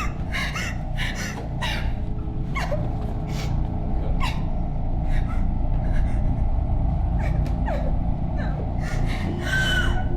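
Low rumbling drone with a string of short, breathy gasps over it, some with a brief falling whimper.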